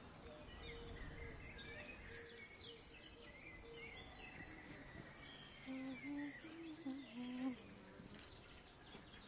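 A songbird singing outdoors: two phrases of quick, high notes, each sweeping downward, about two seconds in and again about five and a half seconds in, over a soft background hiss.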